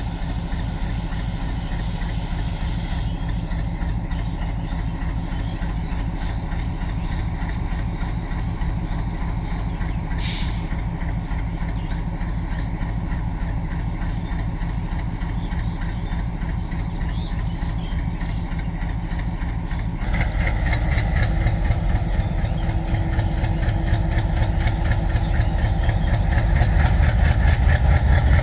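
WDG diesel locomotive engine idling with a steady throb, with a short sharp hiss about ten seconds in. About two-thirds of the way through the engine grows louder and a steady higher tone joins as it is throttled up to start the train.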